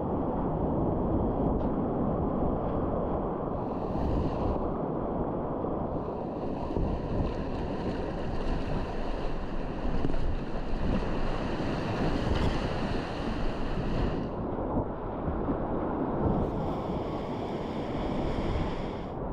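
Rushing whitewater of a river rapid, with wind buffeting the microphone. A brighter hiss of splashing water rises in the middle and again near the end.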